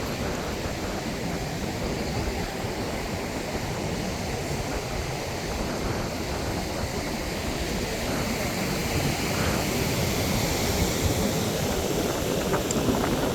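Strong wind buffeting the microphone over the steady rush of surf on a beach.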